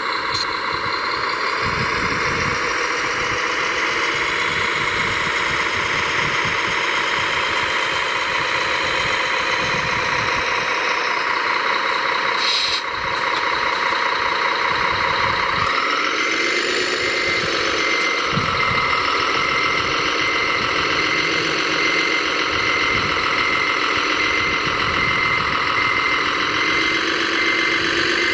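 Radio-controlled heavy construction models running: a whine of motors and gears mixed with engine sound, steady at first and shifting in pitch about halfway through. From a little past halfway a regular high beeping joins, like a reversing alarm.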